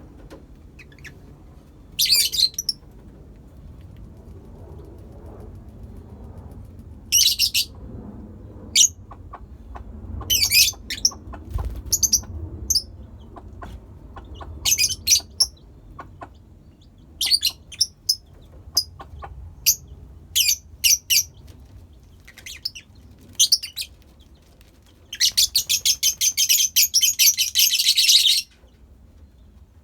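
A colony of lovebirds chirping in short, shrill bursts at irregular intervals, with a longer rapid run of chatter near the end that cuts off suddenly.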